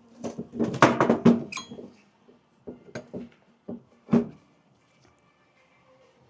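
Small metal brake-pad hardware clips from a hardware kit being handled: a quick run of rattling and clinking, then about five separate light clinks as the pieces are set down.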